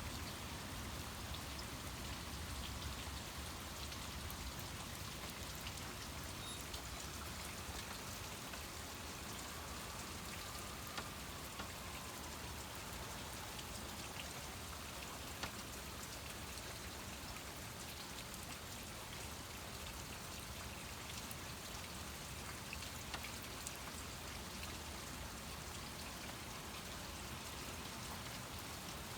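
Steady rain falling from a thunderstorm, an even hiss with scattered drops ticking on surfaces.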